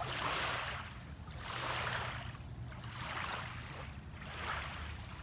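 Small waves washing onto a sandy beach, a soft swish about every second and a half, over a steady low rumble.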